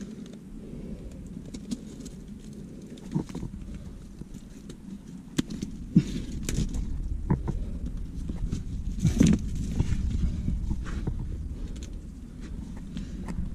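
Close-up sounds of free-solo chimney climbing on a helmet-mounted camera: scattered scrapes and taps of climbing shoes and hands on rock. Wind rumbles on the microphone throughout, growing stronger from about halfway.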